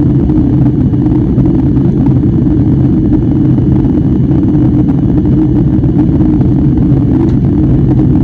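Airliner cabin noise: a steady low rumble of the jet engines and airflow heard from inside the passenger cabin.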